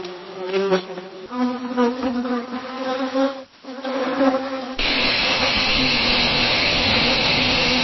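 Bee buzzing in flight, its pitch wavering as it moves; about a second in the buzz drops to a lower pitch. Past the halfway point a louder, steady, hissier buzz takes over.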